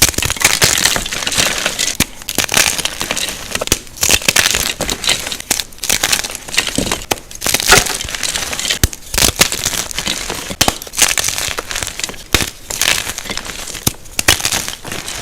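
Blocks of gym chalk being crushed, a dense run of crisp crunches and crumbling with many small sharp cracks.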